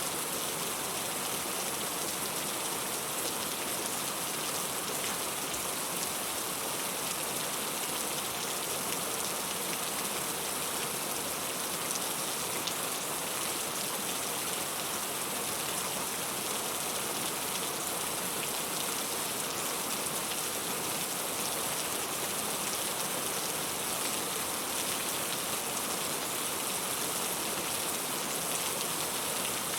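Steady rain falling on a surface, an even hiss with many fine drop ticks and no change in strength.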